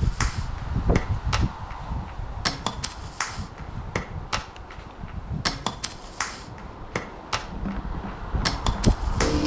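A run of irregular sharp clicks and knocks, a few close together at times, over a low rumble.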